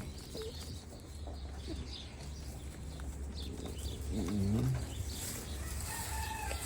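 Chickens calling, with a short call about four seconds in and a drawn-out call that falls in pitch near the end, over a steady low rumble.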